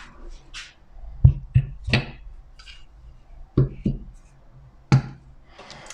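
A handful of sharp clicks and knocks, irregularly spaced, from a brass water pressure reducer and its union-nut fittings being unscrewed and handled.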